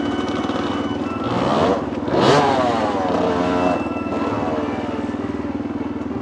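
Dirt bike engines running at idle, with a short rev about a second and a half in and a sharper rev just after two seconds that rises and then falls back to idle.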